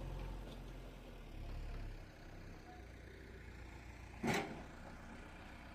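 Faint, low engine rumble, dropping slightly about two seconds in, with one sharp knock about four seconds in.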